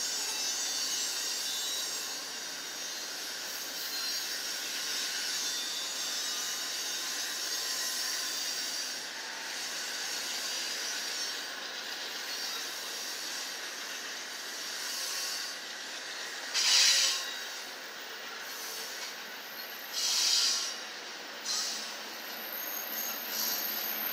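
Train wheels squealing on the rails under a steady high hiss, with two short, louder squeals about two-thirds of the way in, a few seconds apart.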